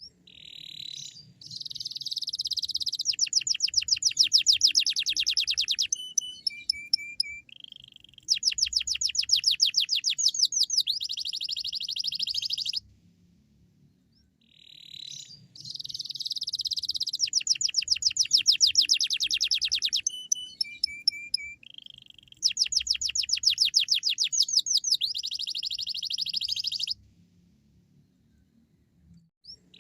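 Domestic canary singing loudly in full song: rapid trills and chirps. The same long phrase of about twelve seconds is sung twice, with a short pause between.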